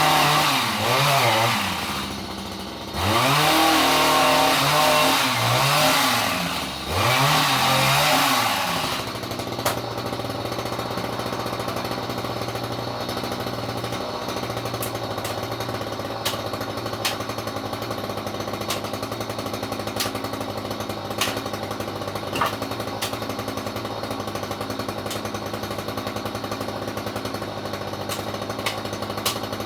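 Petrol chainsaw revving up and down, its pitch dipping and rising repeatedly for about nine seconds as it works through wood, then settling to a steady, lower idle with occasional faint ticks.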